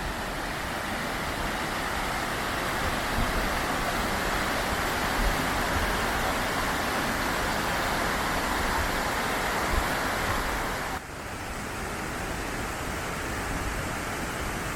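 Mountain stream rushing, a steady noise of running water. About eleven seconds in it changes abruptly to a softer, more even rush.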